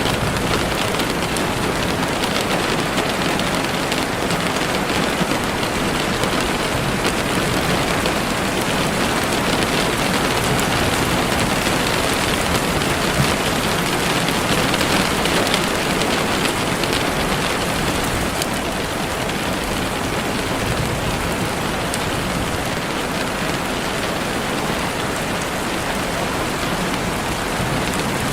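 Heavy rain falling steadily on leaves and the forest floor, an even, unbroken hiss.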